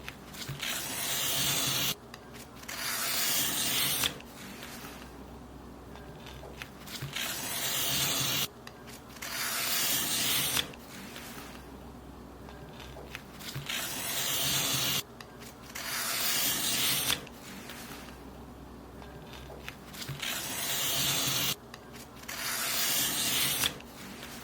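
Paper being cut in long strokes, each a hiss of about two seconds that builds and then stops abruptly. The strokes come in pairs, four pairs in all, about six seconds apart.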